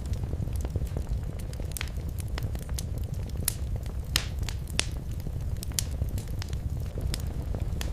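Wood fire in a fireplace crackling and popping, with a steady low rumble of the flames beneath and a few sharper pops in the middle.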